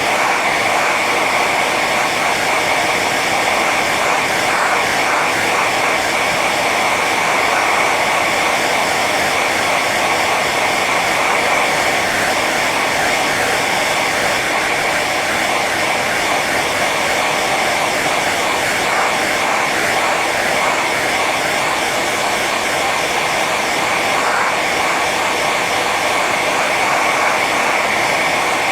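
Hair dryer running on its high setting: a steady blowing rush with a constant whine from the fan motor.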